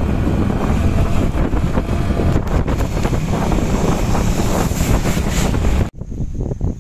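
Loud wind noise buffeting the phone's microphone on a moving motorcycle in heavy rain, an even rush that is heaviest in the low end. It cuts off abruptly near the end, giving way to a much quieter passage with a faint steady high tone.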